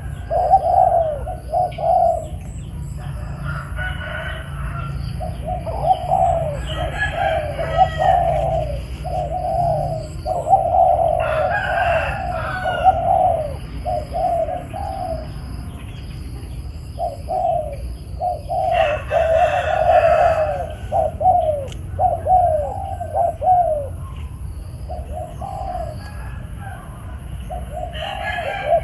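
Spotted dove cooing, repeated phrases with short pauses, while other birds chirp now and then.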